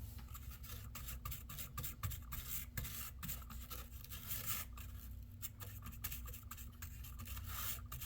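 Bristle brush scrubbing caked dust out of a laptop's cooling fan and vents, in quick irregular scratchy strokes.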